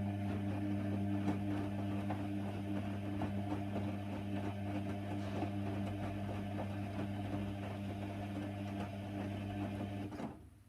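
Hoover Nextra HNWL 7146 washer dryer running with a steady hum and a light rattle, which stops abruptly about ten seconds in.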